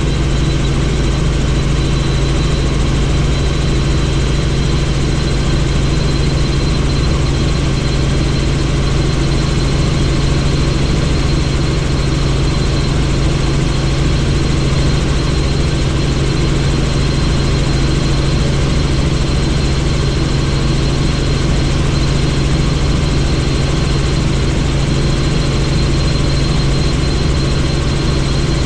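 Helicopter in flight, running steadily: a constant low rotor drone with a thin high turbine whine over it, unchanging throughout.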